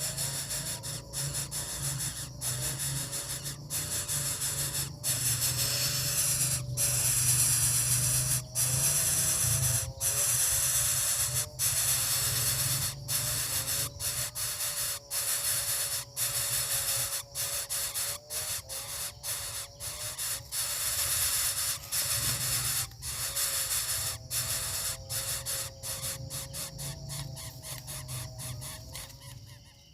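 Coucal chick hissing in the nest: a loud, harsh hiss repeated over and over with short breaks between.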